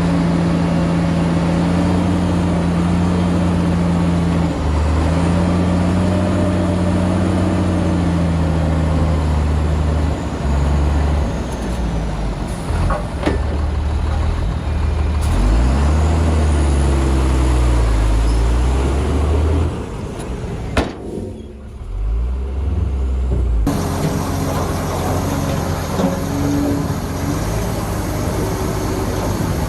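Heavy diesel engines of earthmoving machinery running under load. The engine pitch rises and falls in the middle, with a few sharp knocks. The sound changes abruptly about three-quarters of the way through.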